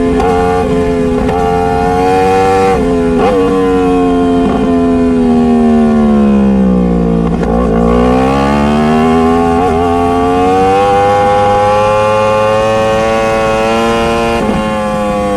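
Motorcycle engine running at speed with a few brief dips in pitch. About halfway through it winds down as the throttle closes, then climbs steadily back up as the bike accelerates again.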